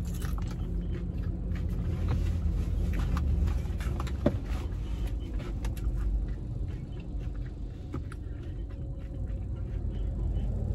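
Close-up crunching and chewing of a crispy hard-shell taco, sharp crackles here and there, the sharpest about four seconds in. Under it a steady low rumble of the car's engine running.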